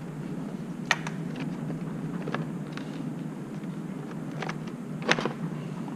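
A few sharp clicks and knocks, the loudest about five seconds in, as the lower half of a motorcycle's airbox is worked loose and handled. A steady low hum sits underneath.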